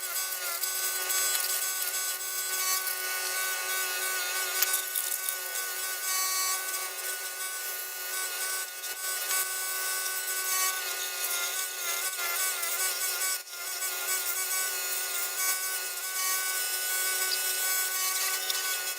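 Steady scraping and rubbing of an abrasive tool on a carburetor part, with a continuous whine whose pitch wavers slightly, and a brief drop about thirteen seconds in.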